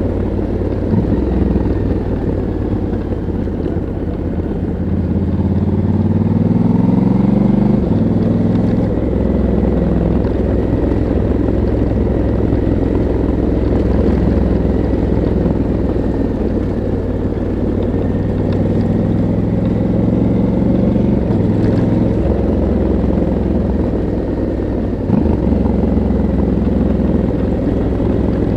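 Stock 2022 Honda CRF1100L Africa Twin's parallel-twin engine and exhaust running under way. The revs climb from about four seconds in and drop sharply just before eight seconds, then run fairly steadily with brief dips later on.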